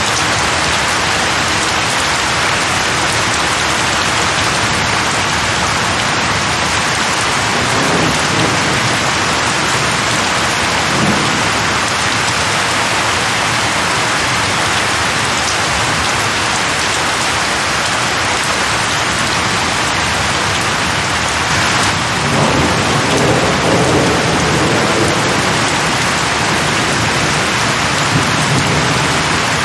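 Heavy rain pouring steadily. A low rumble swells about two-thirds of the way through, with fainter ones earlier.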